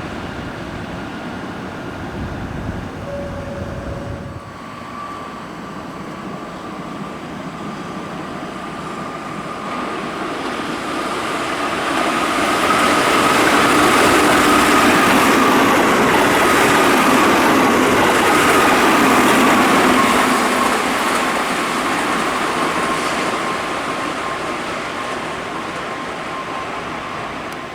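Keihan 9000 series electric train running past on the track, its noise building to a peak in the middle and then fading, with a steady whine over the running noise. Before it, the sound of the previous train cuts off about four seconds in.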